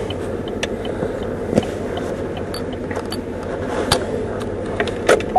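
Lawn care truck and trailer running on the street, with scattered sharp knocks and clicks over the steady vehicle noise, a few louder ones: the stand-on mower platforms banging on the trailer.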